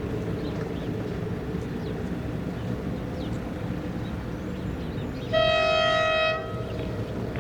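Locomotive running with a steady low rumble, then one horn blast about a second long, about five seconds in.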